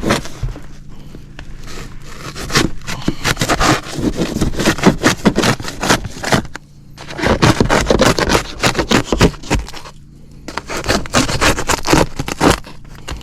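Cutting at the ductwork around a zone damper: rapid, scraping, crackling strokes that come in three spells, with short pauses at about 6 seconds and 10 seconds in.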